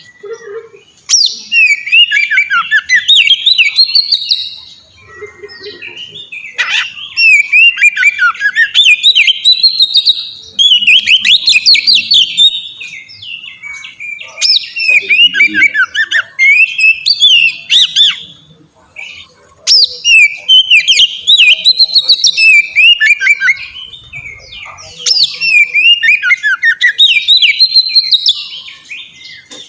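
Oriental magpie-robin (kacer) singing in long, loud, flowing phrases of rapid, varied whistled and chattering notes, broken by short pauses.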